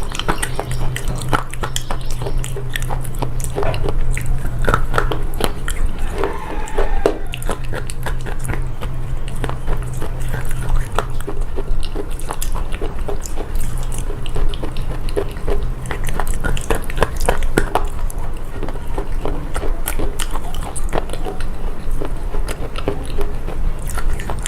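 A person biting and chewing slate pencil up close: a dense, irregular run of sharp crunches and clicks, over a low hum that comes and goes.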